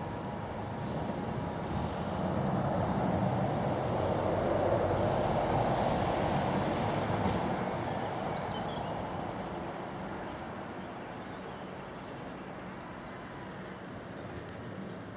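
A train passing on the line: its running noise swells over the first few seconds, is loudest about midway, then slowly fades away.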